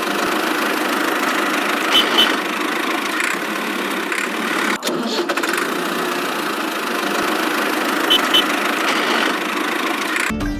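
A motor running steadily, with a pair of quick clicks about two seconds in and again about eight seconds in. Music cuts in at the very end.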